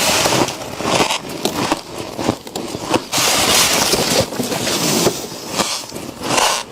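Freezer frost being bitten and chewed close to the microphone: squeaky, crunchy crackling in several bursts of bites, with short pauses between them.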